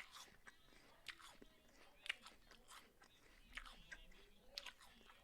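A person chewing a mouthful of raw apple close to the microphone, quiet and irregular, with crisp crunches roughly twice a second.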